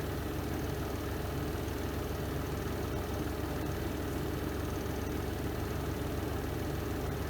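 Spin drum of a Renova semi-automatic twin-tub washing machine whirring steadily through its spin cycle, a low even drone with no changes.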